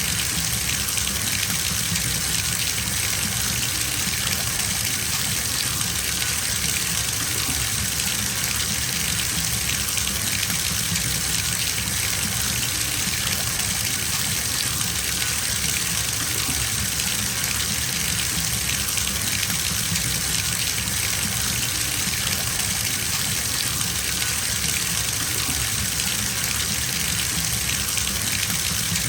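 Bathtub filling from a running tap: water gushing steadily into the tub, an even rushing noise with no change.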